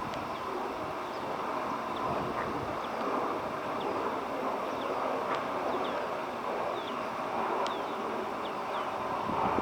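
Outdoor field ambience: a steady rushing background noise, with many short, high, falling chirps scattered through it at about one or two a second.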